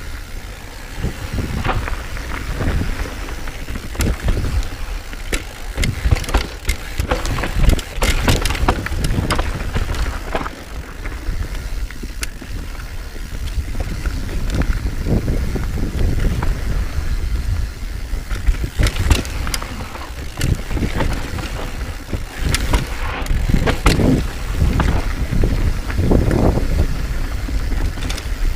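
Mountain bike riding a rough dirt trail: tyre noise and frequent rattling knocks from the bike over uneven ground, with wind rumbling on the microphone.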